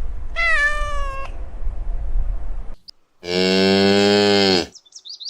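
A cat meows once, a short call falling slightly in pitch, over a low rumble. About three seconds in, a cow moos once, a long low call of about a second and a half, followed by a few short high chirps near the end.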